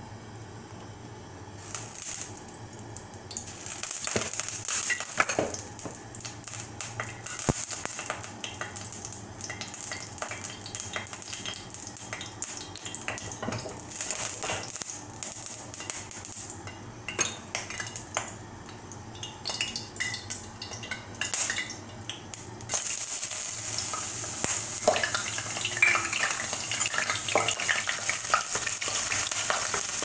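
Stir-frying in a pan: food sizzling while a metal utensil stirs and clinks against the pan. The sizzle gets louder and steadier about 23 seconds in.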